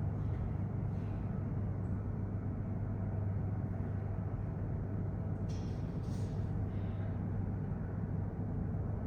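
Steady low rumble of a vehicle in motion, with a few faint brief higher sounds about five to seven seconds in.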